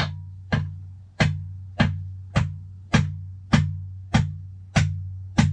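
Hammer blows through a wooden block, driving on the crankshaft of a Kawasaki KD175 engine to free it from the case. About ten steady strikes come a little under two a second, each sharp, with a low hum ringing on between them.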